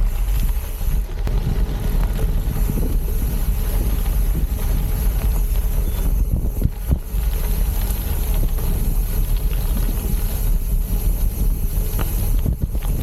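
Wind buffeting the microphone of a riding gravel bike, over a steady low rumble of tyres rolling on a rough unpaved trail, with scattered knocks and rattles from the bike.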